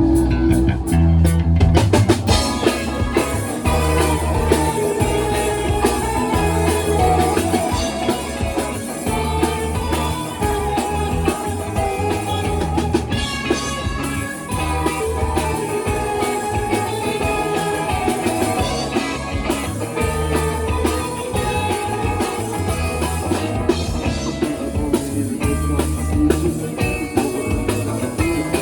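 Live rock band playing a psychedelic rock song: drum kit, electric guitar and bass guitar driving a steady beat.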